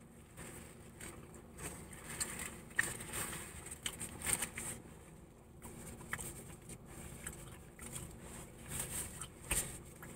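A person biting into and chewing a crispy fried chicken sandwich close to the microphone: a string of irregular small crunches and mouth noises.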